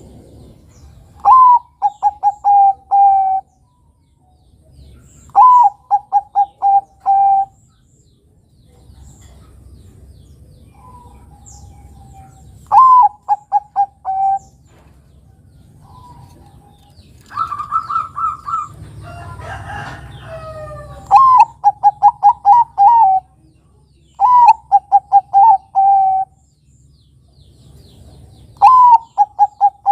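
Zebra dove (Bangkok-type perkutut) singing its cooing song. It gives six phrases a few seconds apart, each a rising first note followed by a rapid run of short coos. About two-thirds of the way through there is a longer, rougher stretch of calling with a held note at its start.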